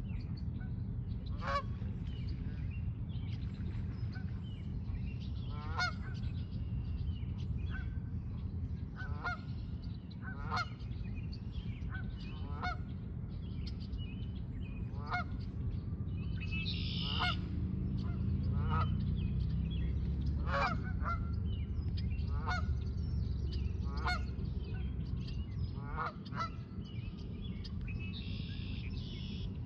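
A bird calling over and over, one short call about every second or two, over a steady low rumble.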